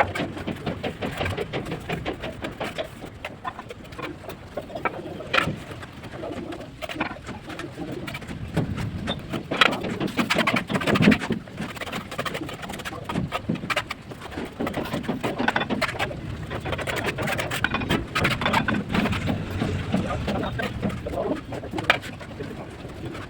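Pigeons cooing, mixed with scattered sharp clicks and knocks.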